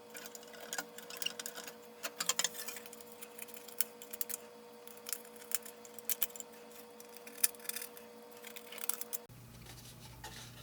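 Faint, scattered clicks and short scratches of a plastic razor blade working dried old stickers off the plastic toy parts, over a faint steady hum that cuts off near the end.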